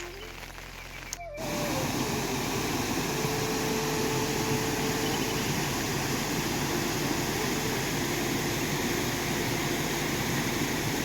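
A held musical note stops abruptly about a second in. A loud, steady rush of water follows, with faint drawn-out tones now and then.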